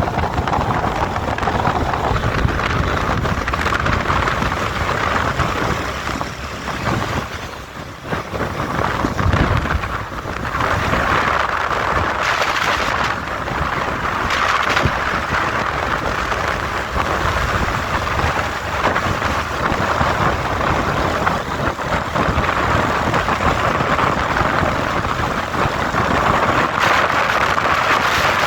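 Wind rushing over the microphone of a moving motorcycle, mixed with engine and road noise while riding; the level dips briefly about eight seconds in.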